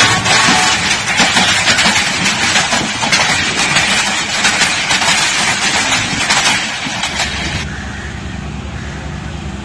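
A train passing close at speed: a loud rushing noise with rapid clattering of wheels on the rails. About eight seconds in it gives way to the quieter, steady low hum of a diesel locomotive engine idling.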